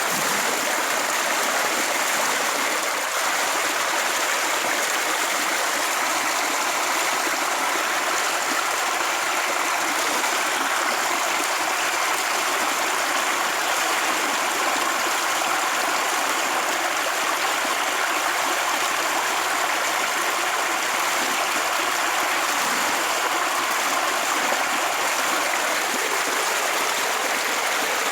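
Steady rushing water, like a stream or small waterfall, running without a break.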